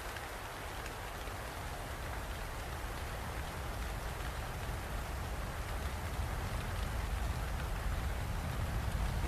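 Steady rain falling, gradually growing louder, with a deep low rumble underneath.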